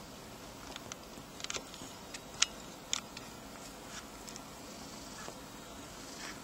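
Kittens moving about and playing, making scattered light taps and scratches, with a few sharper clicks about two and a half and three seconds in.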